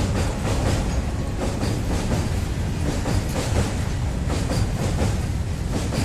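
A train passing close by: a steady loud rumble with rapid, continuous clacking of the wagons' wheels over the rails.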